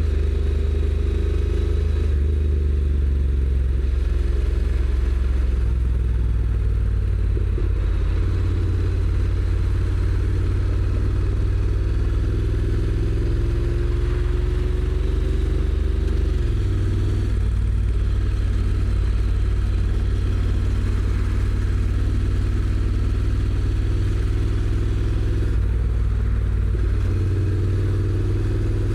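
Honda NC750X's parallel-twin engine through its stock exhaust, running under way on a ride. The engine note climbs slowly, then drops sharply about halfway through and settles on a lower note.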